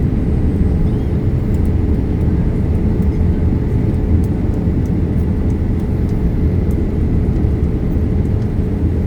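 Steady low rumble of airliner cabin noise inside a Boeing 787 Dreamliner, with a faint steady hum.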